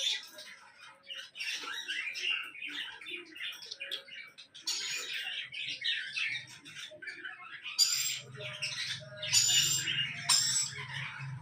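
Baby budgerigars chirping and squawking in quick, irregular bursts, with a few louder, sharper calls near the end.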